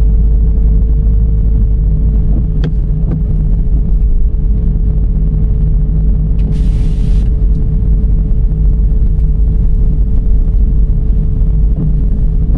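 Dodge Charger's 3.5 V6 car driving along the road: a steady low rumble of road and engine noise with a constant hum. Two light clicks come about a quarter of the way in, and a short hiss about halfway through.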